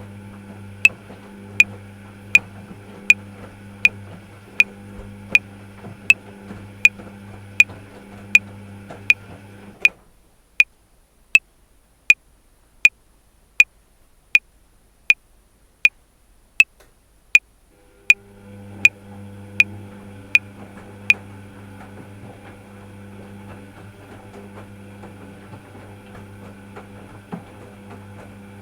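Metronome clicking at 80 beats per minute, 28 clicks in all: four bars of 7/4. A steady low mechanical hum runs beneath it, drops out for about eight seconds midway, then comes back and carries on alone after the clicks stop.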